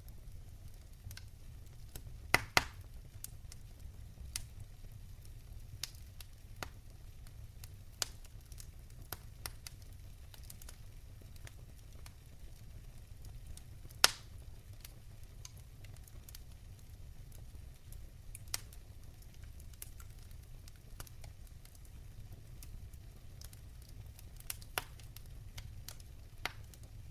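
Wood fire crackling in a fireplace: scattered sharp pops over a steady low rumble, with a loud double pop about two and a half seconds in and the loudest single pop about halfway through.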